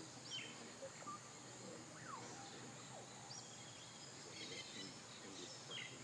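Faint Amazon rainforest ambience: a steady high insect hum with several birds calling in short whistles that fall in pitch.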